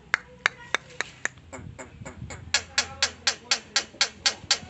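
A bird giving a rapid series of short, sharp calls, about four a second, growing louder about halfway through.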